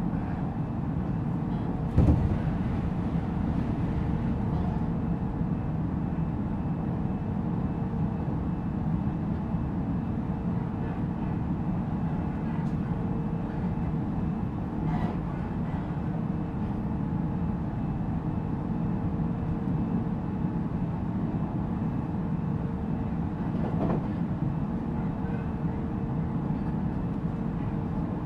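Interior running noise of a JR 313 series electric train, heard inside motor car MoHa 313-7: a steady low rumble of wheels on rail with a constant hum, a sharp knock about two seconds in and a smaller one near the end.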